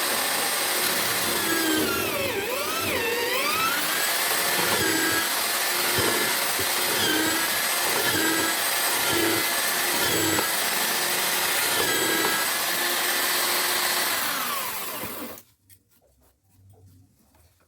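Homemade drill-powered mortiser running and boring into wood. Its motor pitch dips and recovers with each plunge, roughly once a second, and the motor stops about fifteen seconds in.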